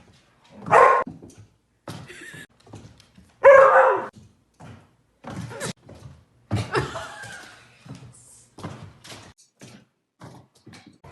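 An animal calling loudly twice, about a second and about three and a half seconds in, with fainter calls and scattered knocks and thuds in between.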